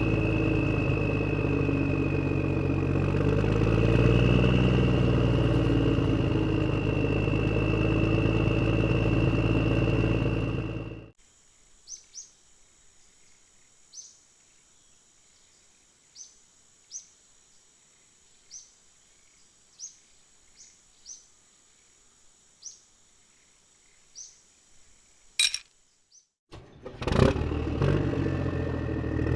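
Tractor engine sound effect running steadily, then cutting off suddenly about a third of the way in. A quiet stretch follows with scattered short bird chirps, then a sharp click, and the engine sound starts again near the end.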